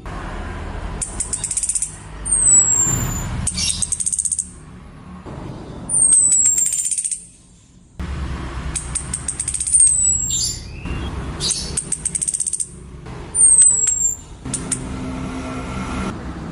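Female orange-headed thrush calling: a thin, high whistle sliding down, four times, mixed with bursts of rapid high ticking, over a steady low rumble. The calls are a lure to draw males into song.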